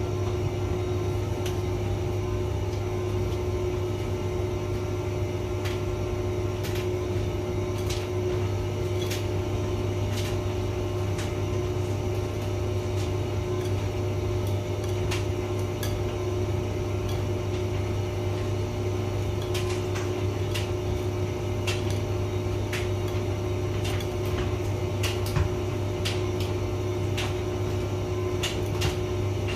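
Hotpoint vented tumble dryer running: a steady motor hum with a constant mid-pitched tone, and irregular light clicks and taps throughout.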